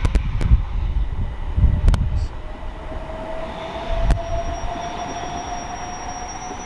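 Electric multiple-unit train at a station: a heavy low rumble with sharp clicks from the wheels, then a steady motor whine that rises slowly in pitch as the train picks up speed.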